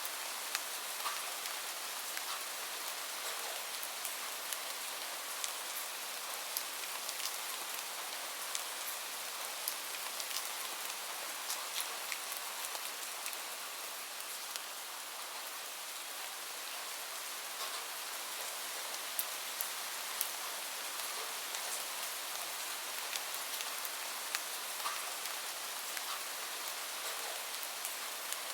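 Steady rain falling, a constant even hiss, mixed with a wood fire's scattered sharp crackles.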